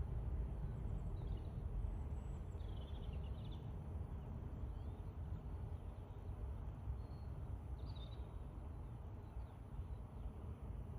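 A few short bird chirps over a steady low rumble.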